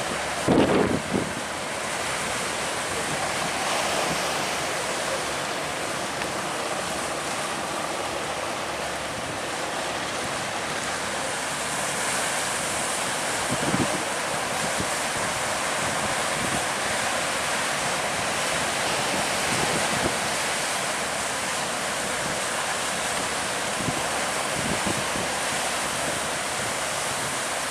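Strong wind blowing over the microphone together with a steady rush of sea and surf. It is broken by a few short low buffets of wind on the microphone, just after the start and again about halfway through.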